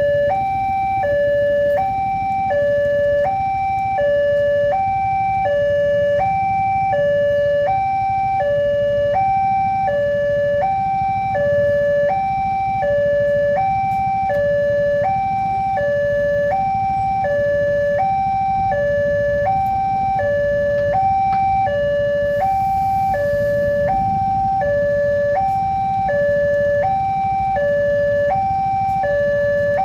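Indonesian railway level-crossing warning alarm sounding its two-tone signal: a low and a higher tone alternating steadily, each held about two-thirds of a second, warning that a train is approaching and the barriers are down. A low rumble runs underneath.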